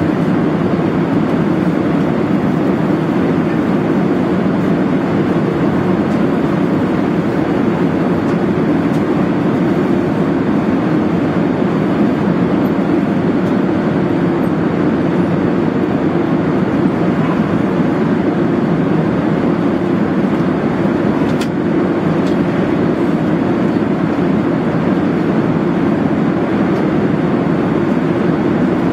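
Steady, loud cabin rumble inside an Airbus A380, the even roar of engines and airflow heard from a lower-deck seat, with one faint click about two-thirds of the way through.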